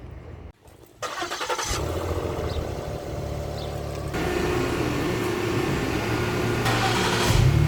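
Ford Explorer engine cold-starting about a second in with its mufflers and resonator deleted, then running at a loud, steady idle that steps up about four seconds in. It begins to rev near the end.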